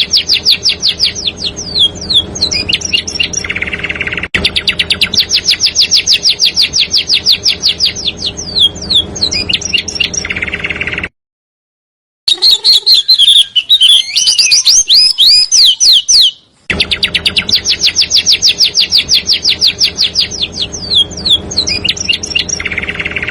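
Small songbird song: a fast, tight trill of sharp high notes at about nine a second, ending in a few falling slurred whistles, repeated as a looped phrase. About eleven seconds in the sound cuts out for a second, a different burst of varied high chirps plays, then after another brief gap the trill phrase returns.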